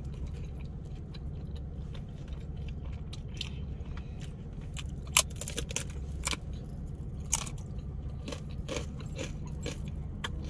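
Close-up chewing and crunching of crisp fried tortilla chips, in irregular crunches, the loudest about five seconds in.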